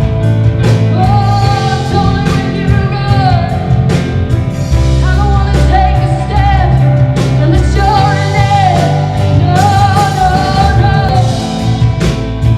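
Church worship band playing live: a singer holding long notes over bass, guitar and steady drum hits.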